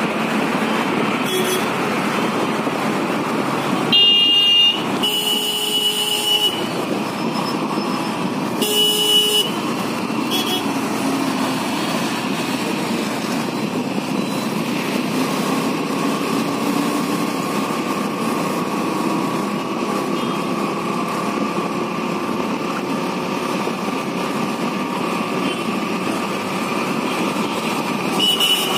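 Motorcycle riding through city traffic: steady engine and road noise with several vehicle horn honks, the longest about five to six seconds in, another about nine seconds in, and a short one near the end.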